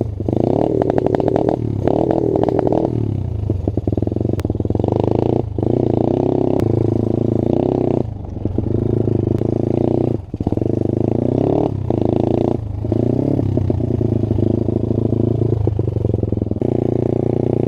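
A small dirt bike engine being ridden, its pitch rising and falling as the throttle is worked, with brief drops in sound several times, like throttle-offs or gear changes.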